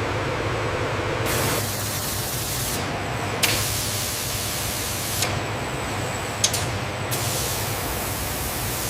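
Steady low machine hum with a loud hiss that cuts in and out in several long stretches, and a couple of sharp clicks.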